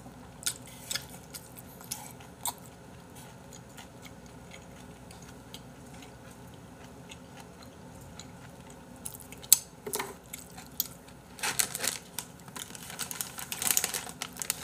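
Close-up eating sounds: soft chewing with scattered light clicks of chopsticks on the bowl. About two-thirds of the way in, a plastic snack packet crinkles in several bursts.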